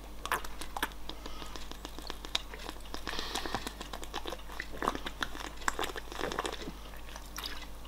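A person gulping down a drink: a run of small irregular swallowing gulps and mouth clicks.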